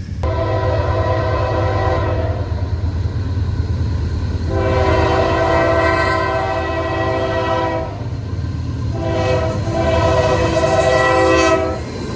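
Diesel freight locomotive's multi-chime air horn sounding three long blasts over the steady low rumble of the train.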